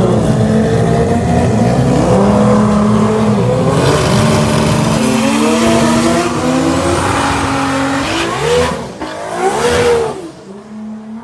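Drag car engine at full throttle on a pass down the strip, its revs climbing and dropping through several gear changes. A few quick rev swings come near the end, then the sound falls away as the car gets farther off.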